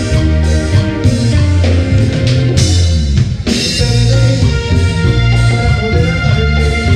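Tropical dance band playing an instrumental passage of a romantic ballad, with bass, drum kit, electric guitar and keyboards. About two and a half seconds in, a drum fill with a cymbal crash.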